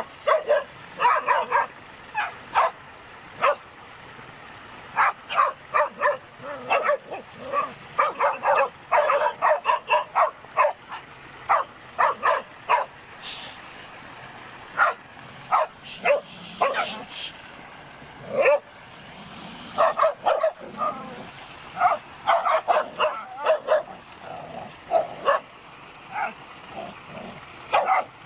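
Dogs barking repeatedly in rapid trains of short barks, with a couple of brief lulls about halfway through.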